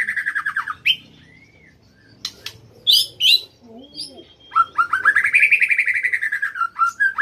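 Young songbird, about two and a half months old, singing: a fast trill, a few sharp chirps around three seconds in, then a long rapid trill from about four and a half seconds that rises and falls in pitch.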